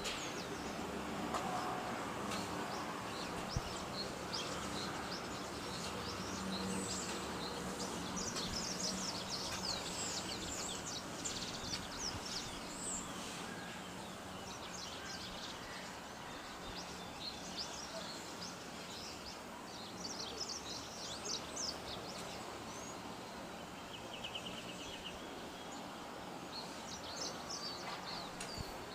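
Small birds chirping in quick, high calls, thickest about a third of the way in and again near the end, over a steady low outdoor background rumble.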